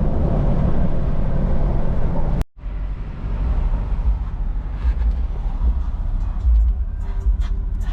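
Car engine and exhaust rumbling steadily while driving. It cuts out abruptly for a moment a little over two seconds in, then resumes.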